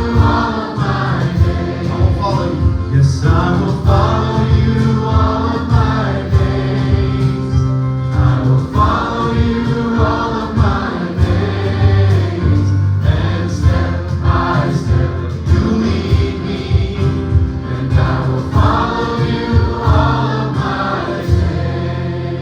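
Gospel choir singing with band accompaniment: voices over a bass line and a steady beat.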